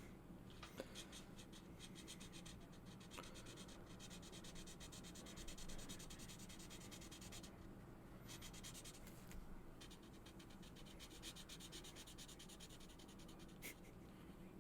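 Felt-tip marker colouring on paper in quick back-and-forth strokes, faint and scratchy, in runs with short pauses. A single small click comes near the end.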